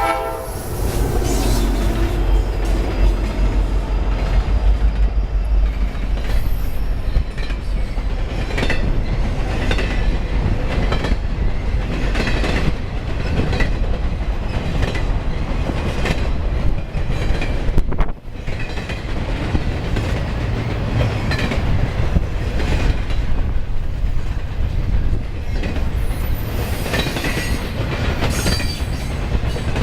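A Norfolk Southern diesel freight train passes close by. At the start a horn chord dies away and the locomotives' low rumble is heaviest; then the intermodal cars roll past with a steady roar and repeated clickety-clack of the wheels over the rail joints.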